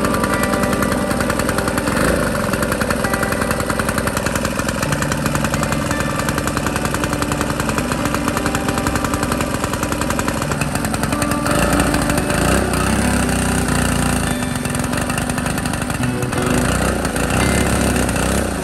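Small diesel engine of a restored water pump running with a fast, even beat; its low note grows fuller about two-thirds of the way through.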